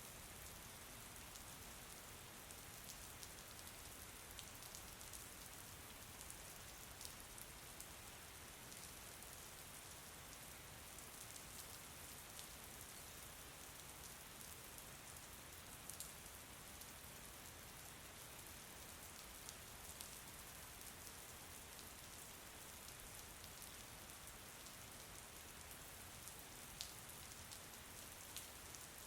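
Faint, steady rain falling, an even hiss with scattered individual drops ticking sharply.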